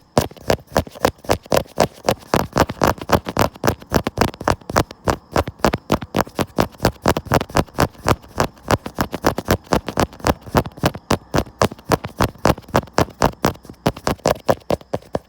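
Rapid tapping on a camera: a quick, steady run of sharp taps, about six a second.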